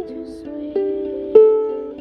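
Solo ukulele music: slow strummed chords that ring and fade between strums, two firm strums in this stretch.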